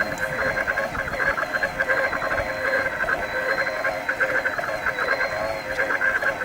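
Giant Trance X Advanced E+ e-mountain bike's mid-drive motor running under pedal assist on the flat: a steady high whine with a fast, uneven rasping grind over it. The grinding is taken by the owner for a worn bearing.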